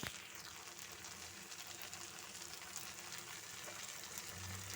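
Egg frying in oil in a pan, a faint steady sizzle with fine crackling.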